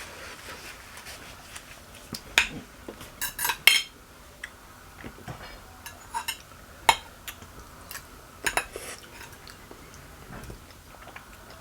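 Cutlery clinking and tapping against a plate in scattered, sharp strikes, with a quick cluster of clinks about three and a half seconds in.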